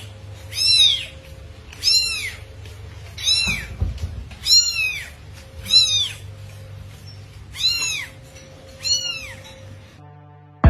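A cat meowing over and over: about seven high meows, each rising and falling in pitch, a little over a second apart, over a faint steady hum.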